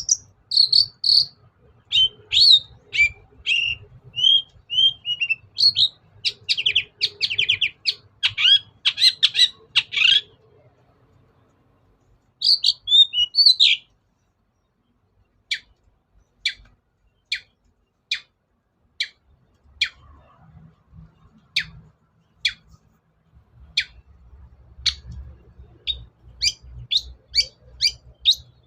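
Long-tailed shrike singing: a varied, chattering warble for the first half, then a string of short, sharp notes that drop in pitch, about one a second, coming faster near the end.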